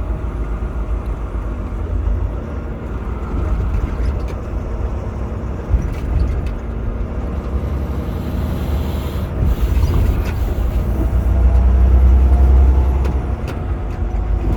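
Semi truck cab interior while driving: a steady low engine and road rumble that swells near the end, with a hiss lasting a few seconds in the middle.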